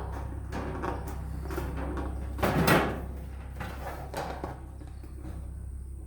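Straight tin snips cutting sheet metal, a series of short irregular snips with the loudest about two and a half seconds in.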